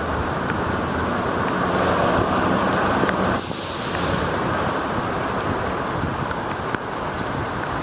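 Steady traffic and wet-road noise heard from a moving bicycle, with a short, sharp hiss about three and a half seconds in.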